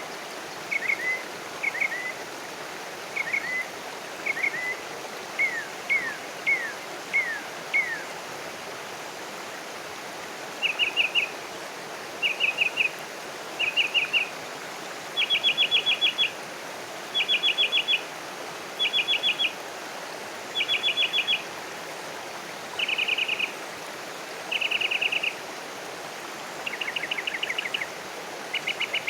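Wild bird calling repeatedly: for the first eight seconds, short falling chirps about once a second. After that come rapid trilled bursts, each about a second long, every two seconds or so, over a steady background hiss.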